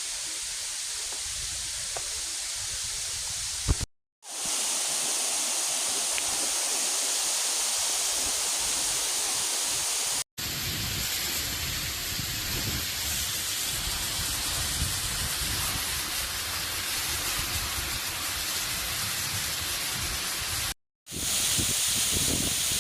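Steady rushing water of a waterfall, as a continuous roar of noise, in three or four clips joined by brief breaks of silence.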